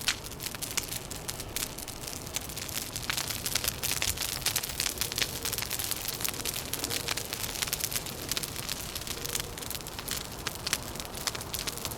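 Wood fire crackling with dense, irregular pops and snaps, over a steady low rumble of wind.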